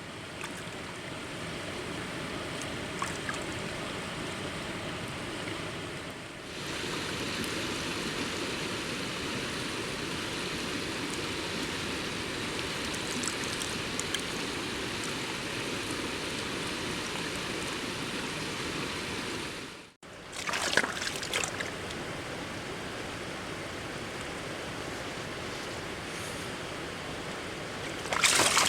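Steady rushing of a river flowing over stones. About two-thirds of the way through it drops out for a moment, then comes back with a few brief knocks or rustles, and there is another short rustling near the end.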